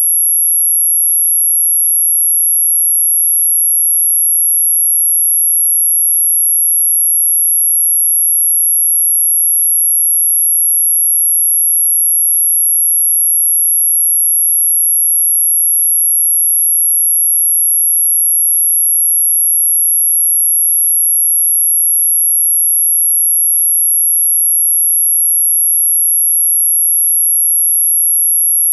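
A single very high-pitched pure electronic tone held perfectly steady, with no change in pitch or loudness. It is a mosquito-repellent tone, meant to keep mosquitoes and other pests away.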